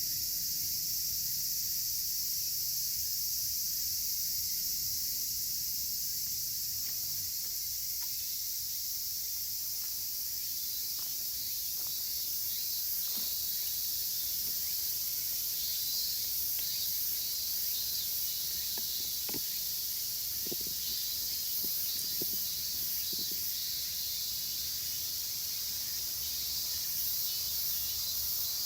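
Chorus of cicadas, higurashi (evening cicadas) among them, a steady high-pitched drone, with scattered faint crackles from a burning wood fire.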